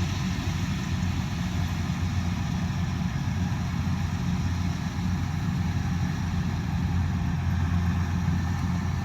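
Kubota DC-108X combine harvester's diesel engine running steadily, a constant low hum with mechanical noise over it.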